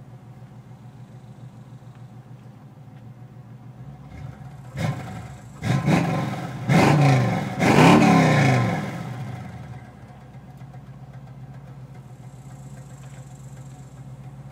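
1976 Chevrolet Nova's 383 stroker small-block V8 through Flowmaster exhaust, idling steadily, then revved four times in quick succession about a third of the way in before settling back to idle.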